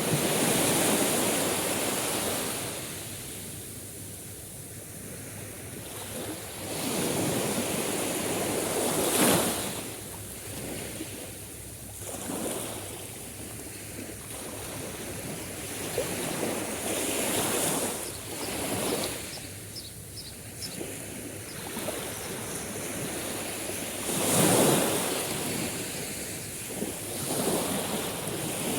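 Sea waves breaking and washing ashore, swelling and ebbing in surges every few seconds, the loudest near the start, about nine seconds in, and near the end.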